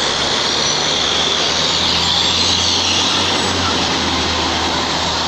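Fire truck's diesel engine running as it drives past: a steady low drone under a loud rushing hiss of engine and road noise.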